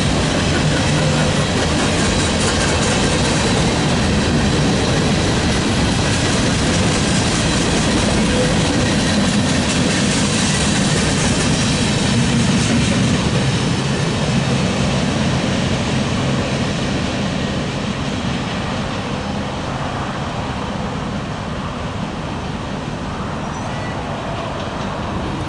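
Freight cars rolling past, their steel wheels running on the rails, with the sound easing off after about two-thirds of the way through as the end of the train goes by.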